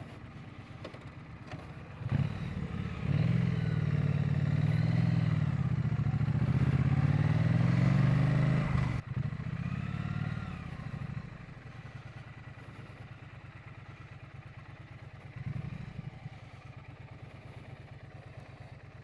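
Triumph Bonneville T100 parallel-twin motorcycle engine. For several seconds it runs loud under load, its pitch rising and falling. About nine seconds in it drops suddenly to a quieter, steady low putter.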